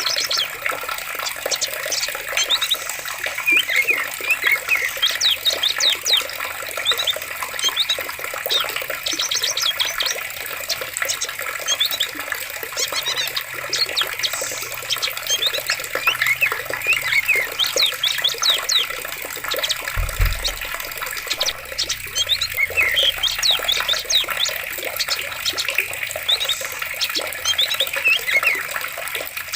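Running water in a forest, a steady rushing with birds chirping over it throughout. A brief low thump comes about two-thirds of the way through.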